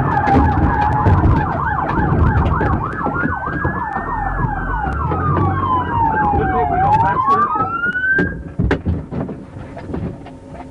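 Police sirens: one on a fast yelp and a second on a slower wail that rises, falls and rises again, both cutting off about eight seconds in, over a low vehicle rumble. A few sharp knocks follow.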